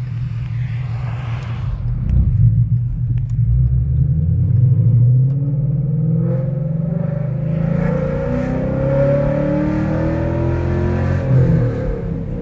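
2017 Ford Mustang GT's 5.0 V8, catless with longtube headers and a Corsa exhaust, accelerating hard under load, heard from inside the cabin. The engine note climbs steadily for several seconds, drops briefly at a manual upshift near the end, then starts climbing again.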